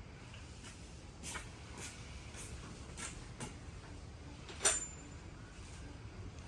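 Scattered light clicks and knocks from metal tools and parts being handled, with one sharper metallic clink that rings briefly about four and a half seconds in.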